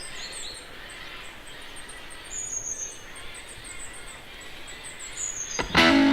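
Wild birds calling in forest ambience: a high, thin falling call repeated about every three seconds over rapid high chirping. Music cuts in loudly near the end.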